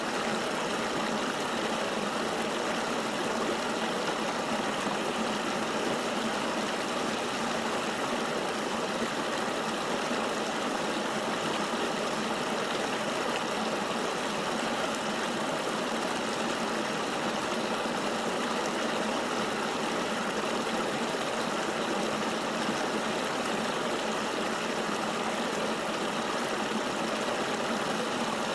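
River water flowing, a steady, even rush with no pauses or changes.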